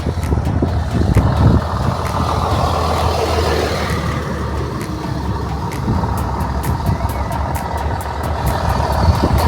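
Routemaster double-decker bus running along, heard from on board: a steady low engine hum under road noise, with frequent light clicks and rattles, more of them in the second half.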